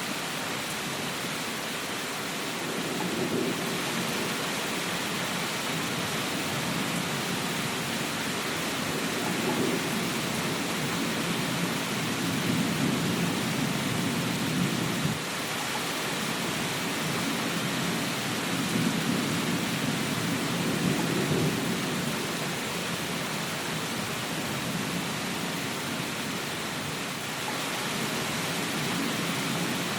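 Steady heavy rain hiss with low rolling thunder that swells and fades several times.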